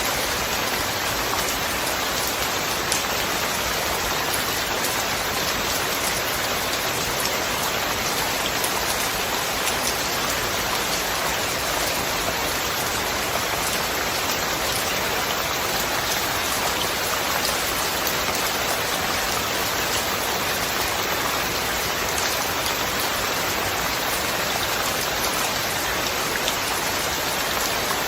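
Steady rain falling, an even hiss flecked with the ticks of single drops.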